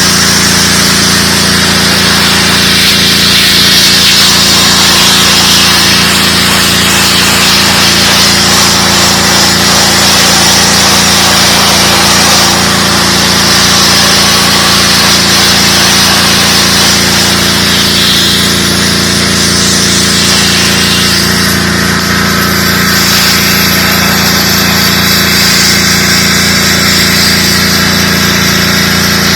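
DeWalt 3600 psi gas pressure washer running steadily, its engine humming under the hiss of the high-pressure water jet. The spray hiss eases about two-thirds of the way through while the engine runs on.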